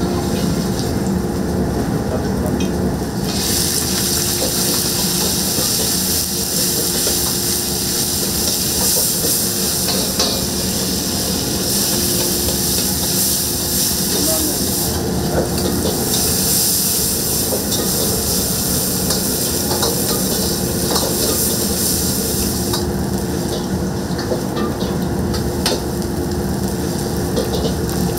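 Egg fried rice sizzling as it is stir-fried in a wok over the steady rumble of the burner, with the ladle ticking against the pan. The sizzle swells about three seconds in, dips briefly midway, and drops back near the end.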